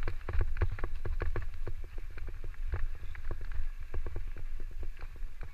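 Electric mountain bike clattering over a rough forest trail: rapid, irregular knocks and rattles over a steady low rumble.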